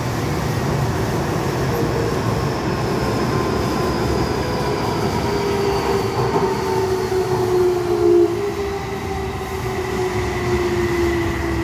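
Steady rumble of a running train heard from inside the carriage, with a motor whine that falls slowly in pitch.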